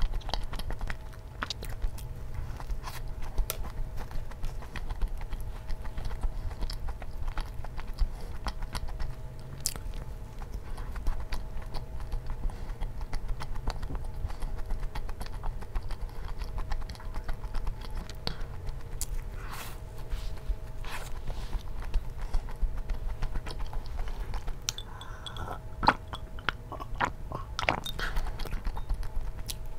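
Close-miked chewing and biting of a soft Krispy Kreme doughnut with a crumbled cookie topping: moist chewing with many small crunches and mouth clicks, over a faint steady hum.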